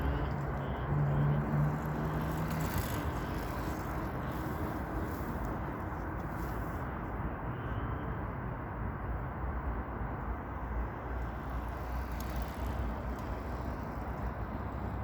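A steady outdoor rumble of noise, with a vehicle's engine hum that fades out about two seconds in.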